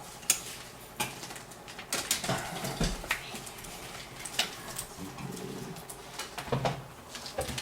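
Scattered clicks, taps and rustles of computer cables and plastic parts being handled and tied down inside a PC case, with faint low murmurs in the background.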